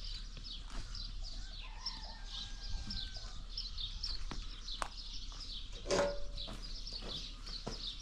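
Small birds chirping in quick, high repeated notes, about three a second, with a few faint knocks and a brief, louder sound about six seconds in.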